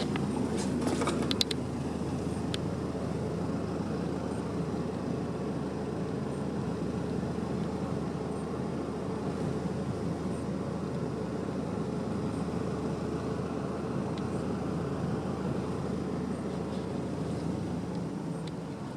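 A machine running with a steady noise, with a few sharp clicks in the first second or two; it winds down near the end.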